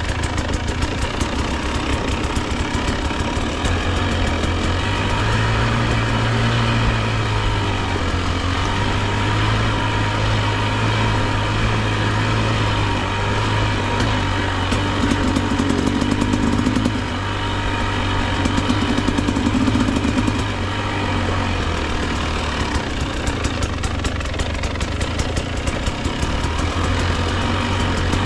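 Two-stroke enduro dirt bike engine, a Husqvarna TE 300, running at low revs on the trail, its note rising and falling a little with the throttle.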